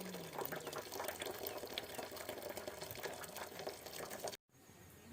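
Cooking water being poured off a pot of boiled rice to drain it, a splashing and dripping pour. It stops abruptly about four seconds in.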